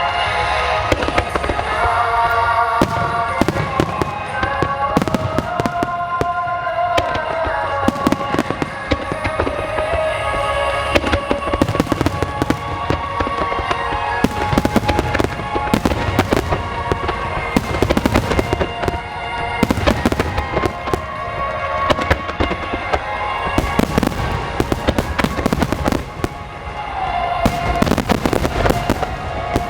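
Aerial fireworks shells bursting in quick, overlapping succession, with deep booms and crackles many times a second, over music. The barrage runs throughout, easing briefly about 26 seconds in before picking up again.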